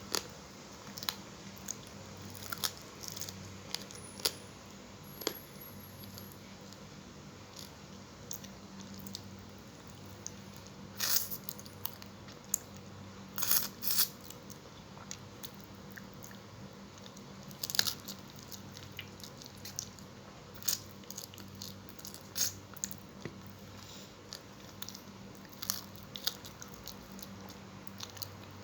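Close-miked eating of fried tilapia: irregular wet chewing, smacking and crunching, with a few louder crunchy bites about 11, 14 and 18 seconds in, over a faint steady low hum.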